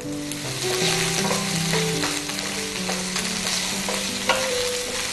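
Shelled peas sizzling as they hit hot oil in a flat frying pan and are pushed and stirred with a wooden spatula. A few sharp clicks of the spatula against the pan, the loudest about four seconds in.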